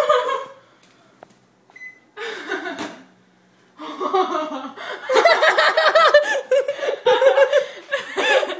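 People laughing hard in repeated bursts, quiet at first and swelling into sustained laughter over the last few seconds.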